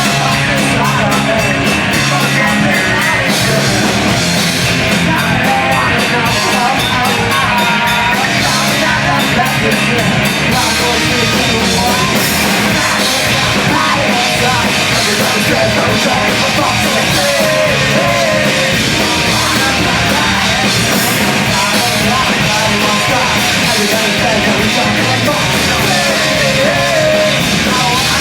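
Live post-hardcore band playing loud, dense music with drums, guitars and shouted vocals, at a steady level.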